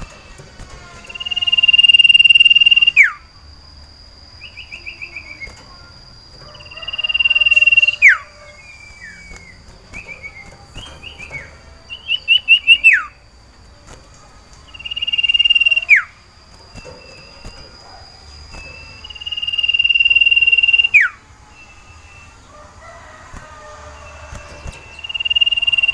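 Male common iora (cipoh/sirtu) singing a breeding call for a female. Long whistles are held on one high pitch, each ending in a sharp downward slide, and they repeat about every five or six seconds, with short rapid trills in between.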